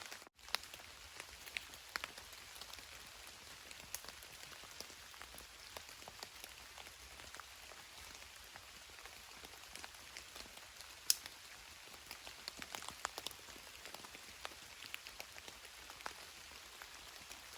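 Steady rain falling, with many individual drops tapping close by and one sharper tap about eleven seconds in.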